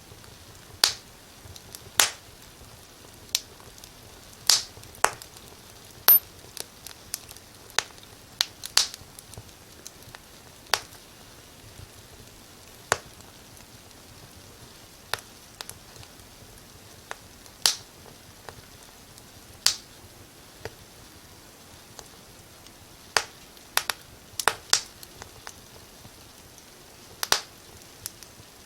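Wood fire crackling: irregular sharp pops and snaps, some single and some in quick clusters, over a faint steady hiss.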